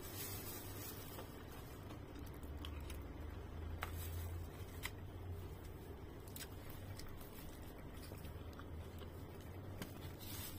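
A person chewing food with the mouth closed, with scattered small clicks over a low steady hum.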